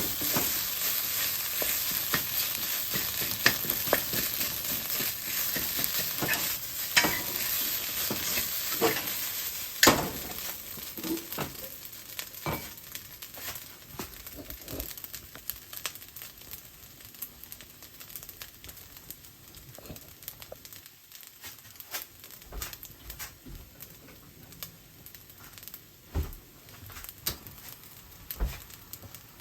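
Fried rice being stir-fried in a pan: oil sizzling, with frequent clacks and scrapes of a utensil against the pan. The sizzle dies down after about ten seconds, leaving scattered taps and knocks.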